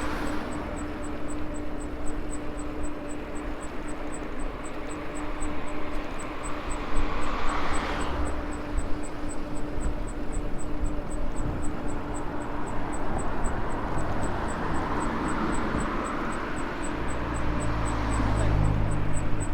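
Electric bike riding along: a steady motor hum under rushing wind and tyre noise, which swells about eight seconds in and again near the end, with a deeper rumble at the very end. A faint high tick repeats about two to three times a second.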